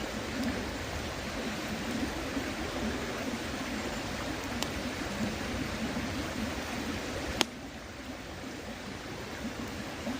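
Steady rush of a flowing stream, with a few sharp pops from a crackling wood campfire; the loudest pop comes about seven seconds in.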